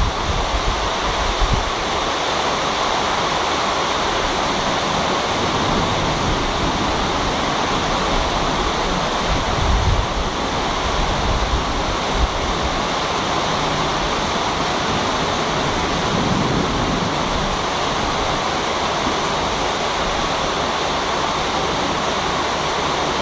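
Heavy rain falling in a steady, dense hiss, with a few brief low rumbles of wind on the microphone, about ten seconds in and again around sixteen seconds.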